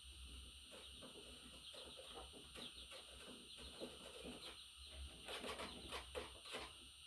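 Pet budgerigar chattering softly: a run of short chirps and clicks that grows busier about five seconds in.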